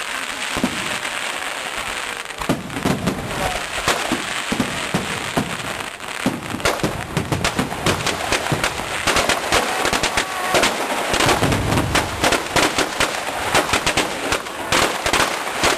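Fireworks going off at a display: a hissing crackle at first, then a rapid, dense run of sharp bangs and cracks from about six seconds in.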